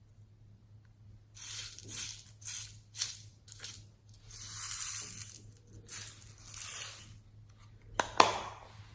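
Slime being squeezed and worked by hand: a run of crackly, squishing bursts starting about a second and a half in, then two sharp pops near the end, the loudest sounds.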